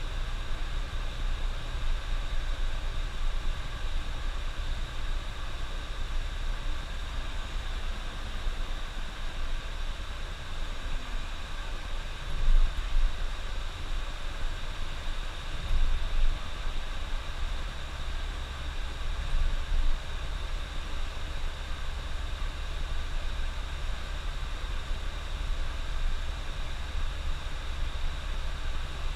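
Bus driving on the highway: a steady low rumble of engine and road noise, with brief louder knocks about twelve and sixteen seconds in.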